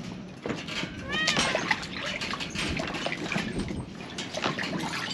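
A short animal cry about a second in, its pitch arching up and then falling, among a run of small clicks and knocks.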